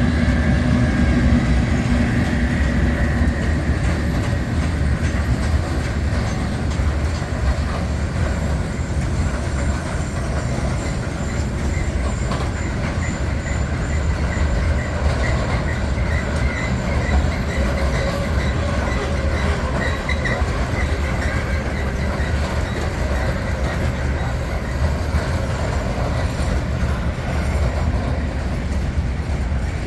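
Freight train passing through the station, its wagons rumbling steadily over the rails. A pulsing high wheel squeal comes in for several seconds in the middle.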